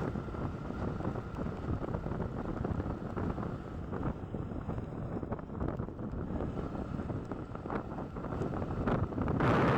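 Wind rushing over the microphone of a moving motorcycle, with vehicle rumble beneath; it grows louder near the end.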